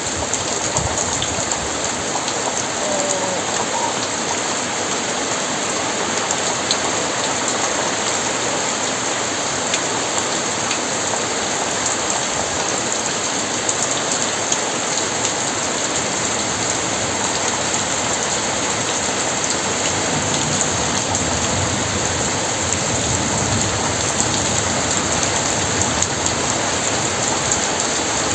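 Very heavy rain falling steadily in a dense, even downpour.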